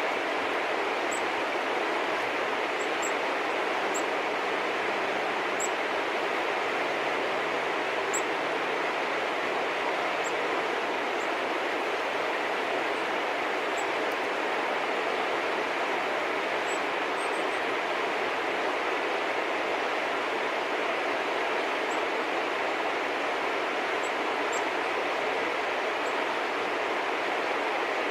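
A steady rushing background noise, with faint, very short, high-pitched chirps of small birds scattered through it.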